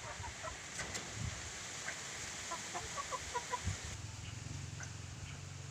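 Short, quick bird notes in a loose run, thickest about two and a half to four seconds in, with a few soft low thumps; a low steady hum comes in near the end.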